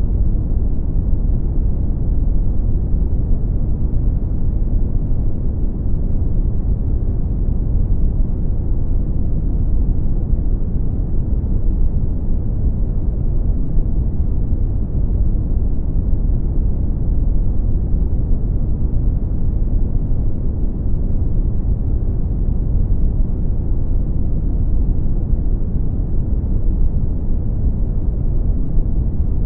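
Brown noise: a steady, deep rumbling hiss, strongest in the lows and fading out above the mids, unchanging throughout.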